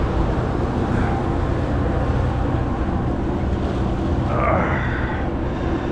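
Fishing boat's engine running steadily with a low, even rumble while the boat lies alongside another vessel, with wind on the microphone.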